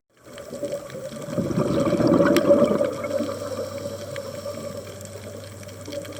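Underwater sound of a scuba diver breathing out through the regulator: a gush of bubbles burbles after a brief silent gap, swells to a peak a couple of seconds in, then eases off to a softer steady underwater hiss.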